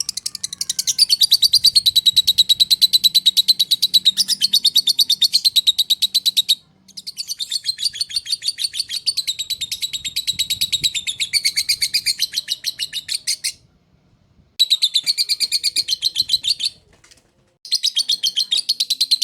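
Lovebird in its long 'ngekek' chatter: fast, shrill, evenly repeated chirps in long unbroken runs. The first two runs last about six seconds each, and shorter runs follow, with brief pauses between them.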